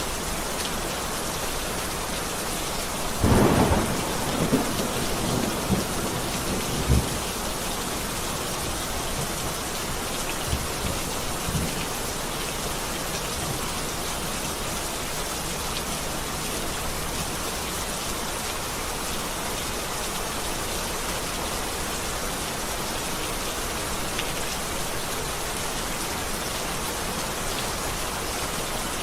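Heavy rain falling steadily, with a crack of thunder about three seconds in that rumbles on for several seconds, and a fainter rumble near the middle.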